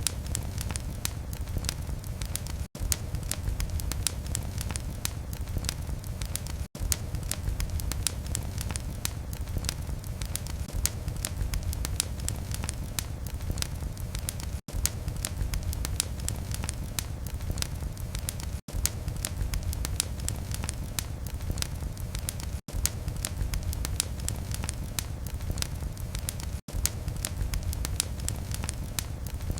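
Wood fire in a fireplace crackling and popping continuously over a low steady rumble of flames. The sound drops out briefly to near silence every four seconds or so.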